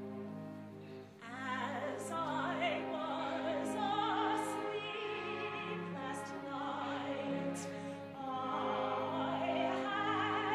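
Operatic singing with strong vibrato over a held orchestral accompaniment; the voice comes in about a second in.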